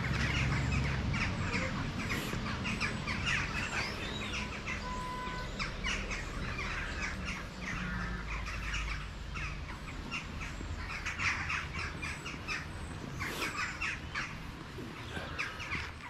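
Birds chirping and calling in repeated short bursts of chatter, over a low rumble.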